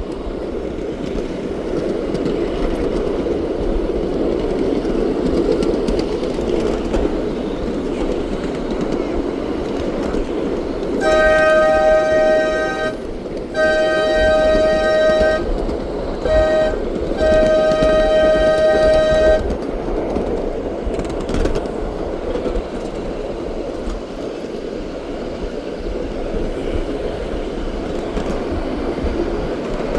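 Train running with a steady rumble. Its horn sounds four blasts in a long, long, short, long pattern, the usual level-crossing warning.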